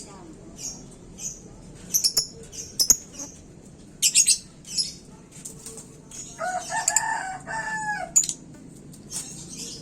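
Lovebirds chattering in short, high-pitched bursts of chirps. A little after the middle, a chicken gives one long call that falls in pitch at its end.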